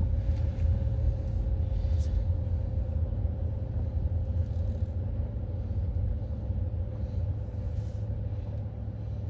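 Car driving slowly, heard from inside the cabin: a steady low rumble of engine and road noise with a faint, even hum above it.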